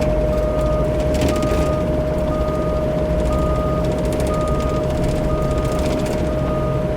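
CAT 304 E2 mini excavator's diesel engine running under work, with a steady high whine and a short alarm beep repeating about once a second. A few light clatters of debris or the tracks come through.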